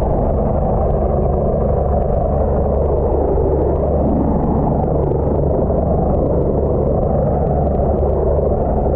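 Helicopter rotor and engine noise, a steady, even rumble heard from a camera mounted in the helicopter's tail section.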